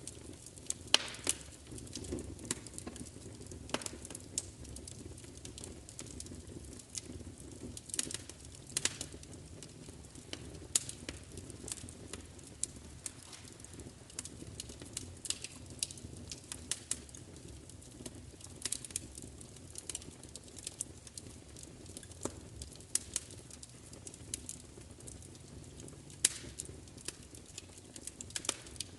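Fire crackling, with irregular sharp pops and snaps over a steady low rumble of burning.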